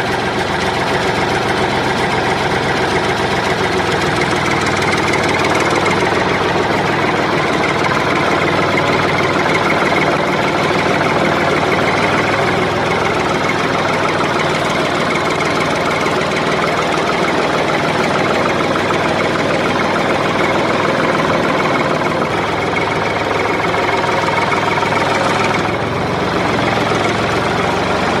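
An engine running steadily at a constant speed, with a slight dip in level near the end.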